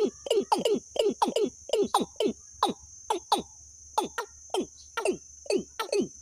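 A bird giving rapid, repeated downward-sliding calls, about three a second in short runs, with a brief pause about three seconds in. A steady high insect drone runs underneath.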